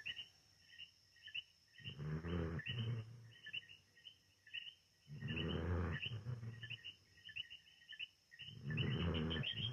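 A dog snoring: three long, low snores about three seconds apart. Small birds chirp throughout in the background.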